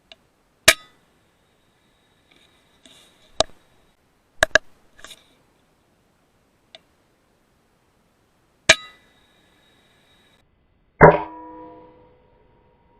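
A suppressed .22 PCP air rifle (FX Impact M3) firing, with two loud sharp shots that each leave about a second of high metallic ringing, and several smaller clicks and knocks between them. Near the end comes a loud clang whose lower ringing tone holds on.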